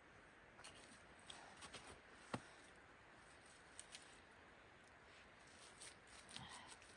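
Near silence with faint scattered clicks and light rustles; one sharper click about two and a half seconds in.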